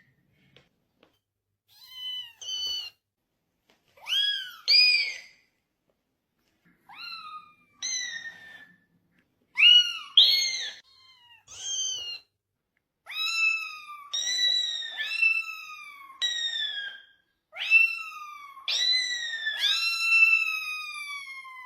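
A cat meowing over and over in high-pitched calls that rise and then fall in pitch. The calls are short and spaced apart at first, then from about halfway they become longer, drawn-out meows one after another.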